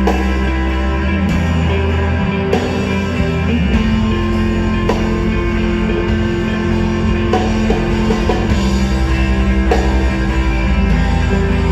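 Live rock band playing an instrumental passage at full volume: sustained electric guitar chords over bass and drum kit, with no singing.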